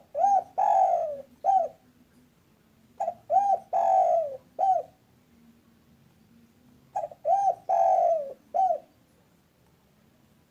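Spotted dove (tekukur) cooing: three phrases a few seconds apart, each a short note, an arched coo, a longer drawn-out falling coo and a short final coo.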